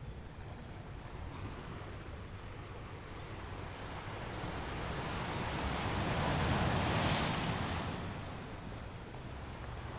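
Ocean surf rushing: a hiss of waves that swells to a peak about seven seconds in, then falls away.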